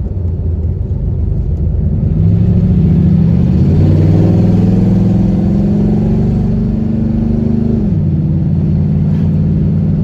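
Ford Mustang GT V8 with a newly fitted exhaust accelerating: the engine note climbs steadily for several seconds, then drops suddenly as it shifts up and runs on at a steady lower pitch.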